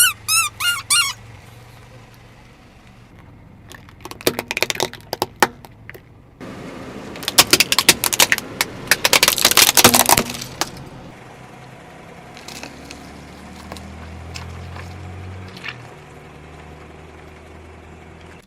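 Objects cracking and crunching as a car's tyre crushes them. There is a short burst of cracks about four seconds in, then a longer dense run of crackling for about three seconds, and afterwards the car's engine runs with a low hum. A few short squeaky chirps sound at the very start.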